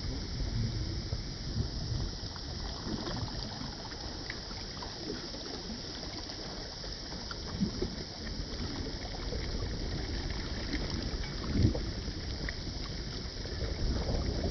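Sailboat under way at sea: a steady wash of water rushing and splashing along the hull, with a louder slap of a wave about two-thirds of the way through.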